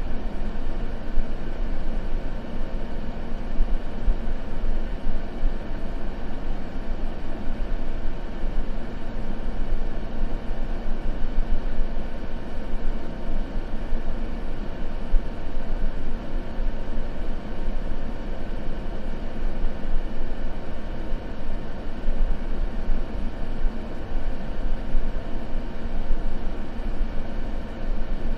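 Continuous steady white-noise ambience, weighted toward the low end so it sounds like a deep, even rumble. No fire crackle or other events stand out.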